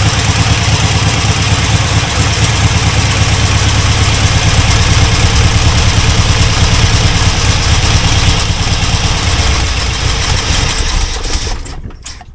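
Rebuilt Chevrolet 350 small-block V8 with an Edelbrock carburetor running steadily, free of rod knock. It cuts off suddenly near the end.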